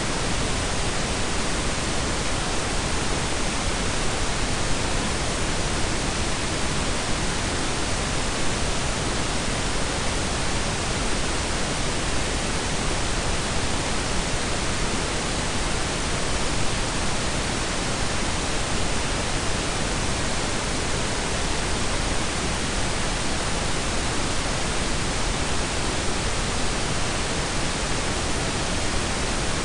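Steady synthetic pink and brown noise blend: an even, unchanging hiss with a deep rumble underneath.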